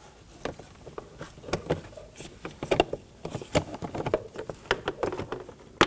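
Irregular plastic clicks, taps and light knocks as a car's interior door trim panel is handled and its inside door-release handle is fed through and fitted, with one sharper knock near the end.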